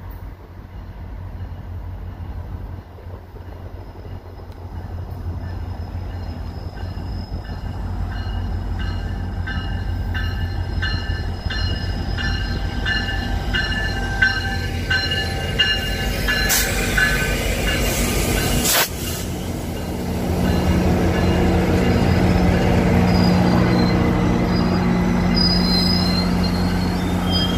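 Train running on rails and growing louder, its wheels squealing against the rails in several high, steady tones. A sharp crack comes near the middle, followed by a louder, steady low drone of the passing train.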